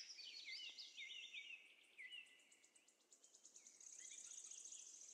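Faint bird chirping: short rising and falling notes for about the first two seconds, then a rapid, high, pulsing trill near the end.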